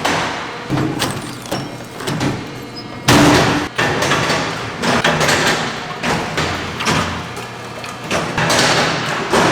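Firewood processing machine splitting oak logs: a steady machine hum with repeated heavy thuds and cracks every second or two as the wood is split.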